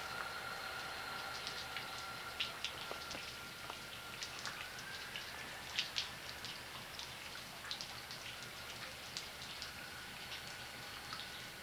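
Rain falling and dripping, with scattered drops ticking close by over a steady hiss.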